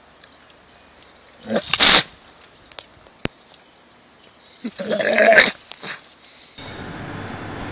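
Goat bleating loudly twice: a short, harsh call about a second and a half in, then a longer, wavering bleat about five seconds in.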